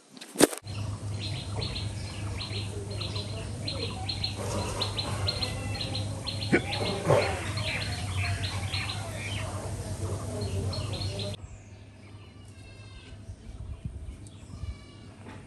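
Birds chirping outdoors in many short, repeated calls over a steady low hum. This layer cuts off abruptly about eleven seconds in, and fainter trilling chirps continue after it. A sharp click comes just before the chirping starts.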